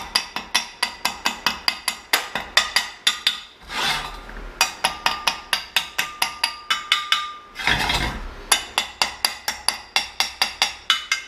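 Rapid hand-hammer strikes on steel, about four a second with a ringing metallic tone and two brief pauses: a chipping hammer knocking flux-core welding slag off fresh welds.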